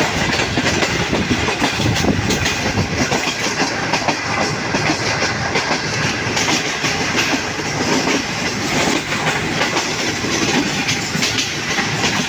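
Moving passenger train: a steady rumble with wheels clattering over rail joints.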